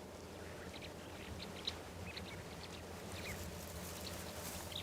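Faint wildlife ambience: scattered short bird chirps over a low steady hum.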